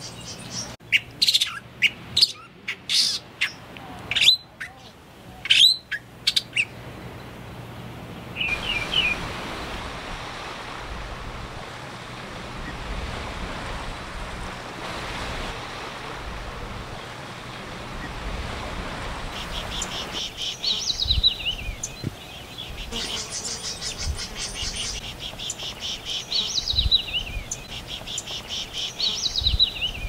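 Galapagos mockingbird giving a quick run of sharp, falling calls. After a quieter stretch of background hiss, another bird repeats falling calls over a high, fast buzzy trill.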